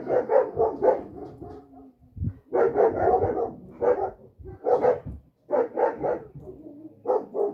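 A dog barking in repeated volleys of quick, loud barks with short pauses between them.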